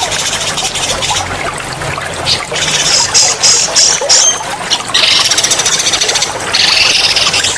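A songbird singing loud, rapid rolling high trills in long bursts, over steadily trickling water. This is a bird-mastering track meant for cage birds to learn from.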